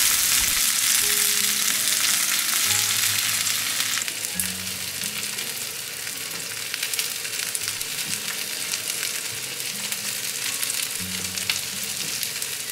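Salmon fillets and shimeji mushrooms frying in oil in a frying pan: a steady crackling sizzle, louder for the first few seconds and dropping in level about four seconds in.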